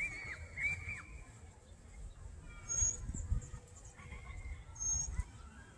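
Birds calling: a short warbling whistle at the start, then two brief high chirps about two seconds apart. A low rumble sits underneath on the microphone.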